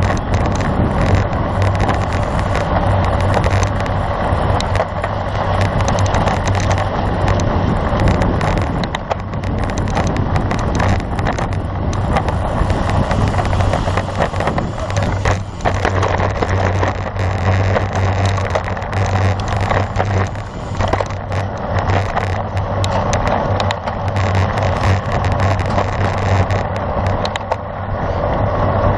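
Steady wind rush and tyre-on-road noise from a road bicycle being ridden, with a constant low hum.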